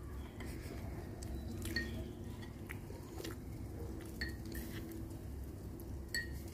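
A person chewing food eaten by hand, with scattered small mouth clicks and finger-licking smacks over a faint steady background hum.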